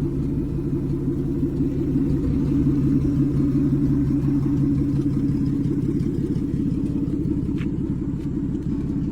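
1948 Chrysler Windsor's flathead straight-six engine running steadily, with a fast, even pulse from its firing.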